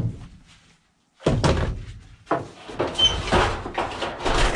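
The sound briefly cuts out, then comes a run of sharp knocks and thuds, with the loudest bangs about three seconds in and near the end.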